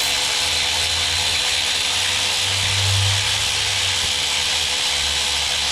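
A motor-driven power tool running steadily at one speed: an even whirring hiss with a faint high whine and a low hum that swells a little about three seconds in.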